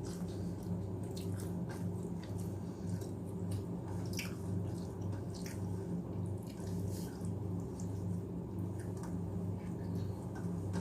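Close-up eating sounds of rice and mashed potato (aloo bharta) being chewed: scattered small wet clicks and smacks, over a steady low hum.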